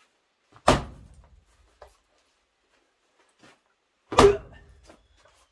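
Axe blows splitting firewood rounds: two sharp, loud chops about three and a half seconds apart, each with a short ringing tail.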